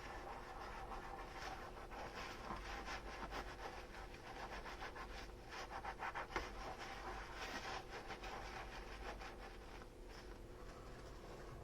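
Dishes being scrubbed with a sponge: continuous rubbing strokes, with one sharper knock about six seconds in.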